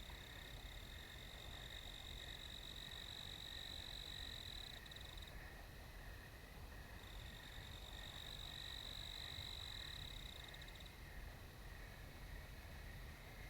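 A high, steady animal trill in the night chorus. It breaks off with a stutter about five seconds in, starts again about a second and a half later, and stutters to a stop again near the end, over a fainter, evenly pulsing lower chorus.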